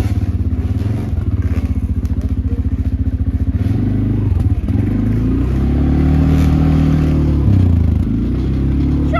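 Small pit-bike engine running with a fast, steady pulse, then revved up about five seconds in and let fall back to idle near the end.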